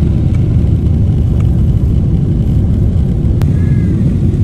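Steady low roar of jet engines and airflow inside the cabin of a Boeing 777-300ER in flight, with one sharp click about three and a half seconds in.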